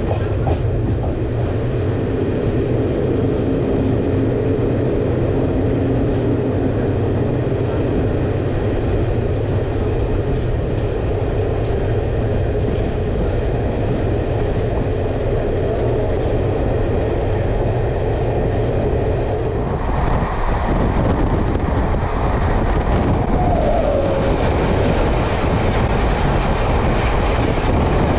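Yelahanka–Kacheguda Express running along the track: a steady rumble and rattle of the moving coaches. About twenty seconds in the noise gets louder and brighter.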